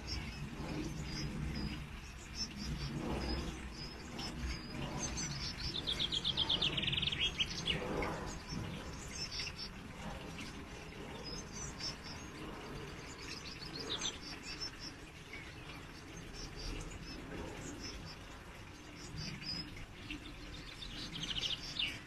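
Small garden birds calling: scattered short, high chirps, and twice a fast trill of repeated notes falling in pitch, each lasting about two seconds, the first about five seconds in and the second near the end.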